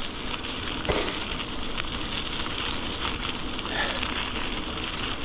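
Bicycle tyres rolling over a wet, gritty path, a steady crackling hiss, with a short louder rush about a second in.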